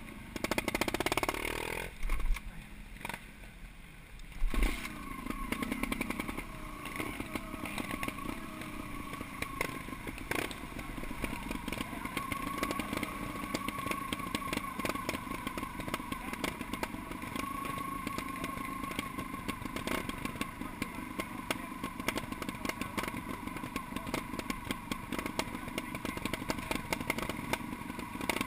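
Trials motorcycle engines running at low revs, with the revs rising in the first couple of seconds and a sudden loud knock about four and a half seconds in.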